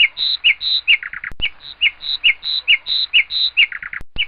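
Red-wattled lapwing calling: a loud, fast, repeated series of sharp, shrill notes in pairs, about three a second, broken twice by a quicker run of falling notes. There are two sharp clicks, one about a second in and one near the end.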